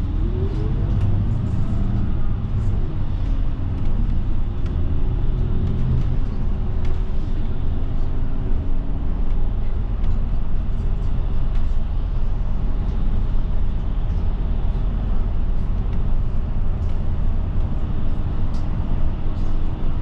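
Route bus under way, heard from inside the cabin: steady engine and road rumble, with a rising whine over the first couple of seconds as it gathers speed.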